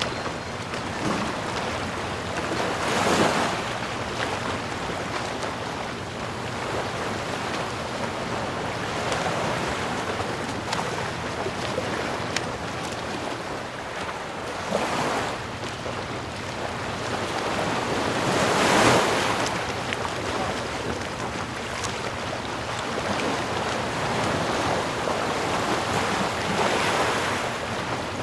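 Ocean waves breaking and washing on the shore: a continuous hiss of surf that swells four times as waves come in and falls back between them, the loudest wave about two-thirds of the way through.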